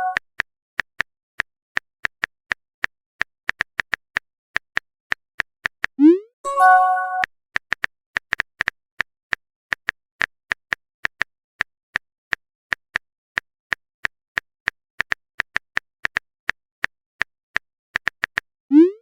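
Phone keyboard typing clicks in a quick, uneven patter, broken about six seconds in by a rising pop and a short chime: the sound effect of a text message being sent.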